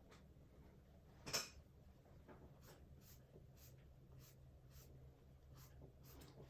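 Faint brush strokes on canvas, a series of short scratchy dabs of acrylic paint, with one louder stroke about a second and a half in, over a low steady hum.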